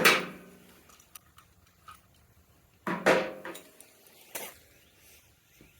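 Metal parts and tools clinking while a scooter's handlebar controls are worked on: a ringing clang right at the start, another ringing clink about three seconds in, a sharp click a second later, and light ticks in between.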